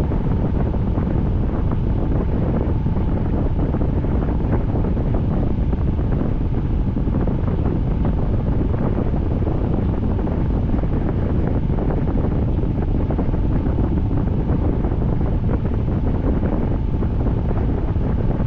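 Steady rain falling, a dense, even hiss with many fine drop impacts.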